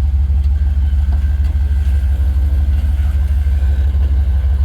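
A vehicle's engine running at a steady low idle, a deep even rumble with a quick regular pulse.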